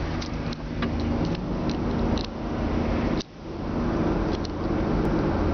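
GAZelle's UMZ-4216 engine idling steadily, with a few light clicks. About three seconds in, the sound drops out suddenly for a moment and comes back.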